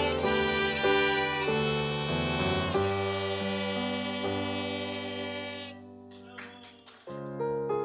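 Student string orchestra playing with violins prominent, closing on a long held chord that dies away about six seconds in. A short gap with a few soft knocks follows, then a piano begins playing near the end.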